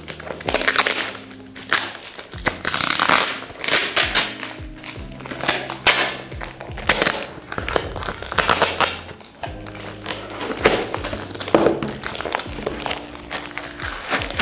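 Packaging crinkling and rustling in loud bursts as it is handled, over background music with held low notes.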